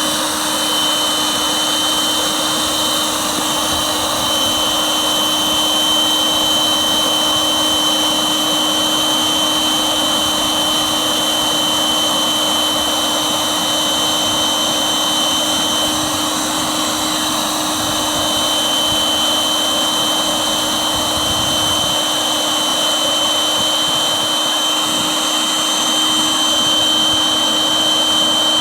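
Electric air pump running steadily with a constant motor whine and air rush, inflating an inflatable boat.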